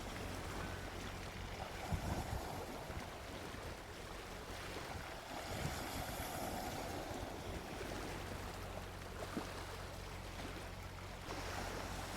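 Gentle sea waves washing onto a beach, the surf hiss swelling and easing, over a steady low rumble with a few soft low thuds.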